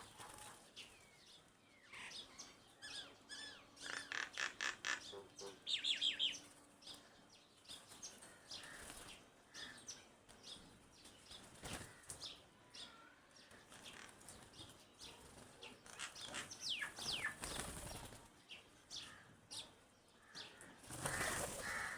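Birds chirping in many short calls, with a quick run of repeated chirps about four to six seconds in.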